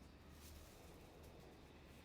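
Near silence: a faint steady low hum with a few soft ticks.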